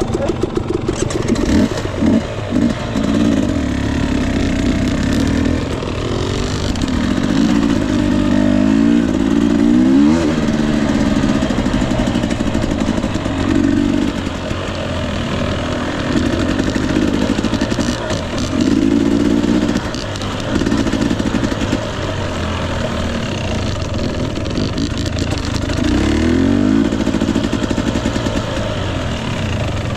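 Husqvarna TE 250i two-stroke dirt bike engine under way, revving up and down again and again as the throttle is worked, over a steady rushing noise.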